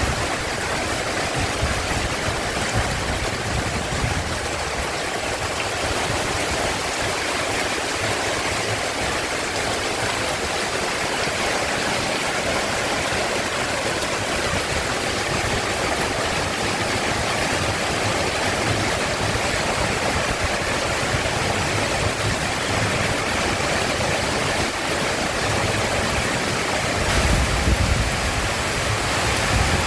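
Heavy rain pouring down: a steady, dense hiss. A low rumble swells briefly near the end.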